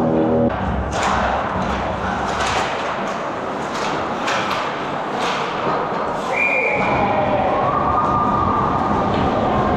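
Ice hockey play in a rink: repeated sharp clacks and thuds of sticks, puck and boards over steady arena noise. A short, high, steady whistle tone sounds about six seconds in, around a goal.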